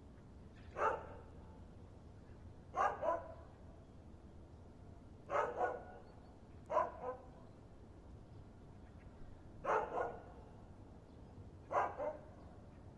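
A dog barking in short bursts, six times, several of them quick double barks, spaced roughly every one to three seconds.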